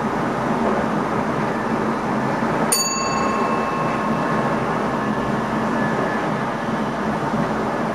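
Steady running noise of an NS ICM electric intercity train heard inside the driver's cab, with a single bell-like ding a little under three seconds in that rings on and fades over a second or two.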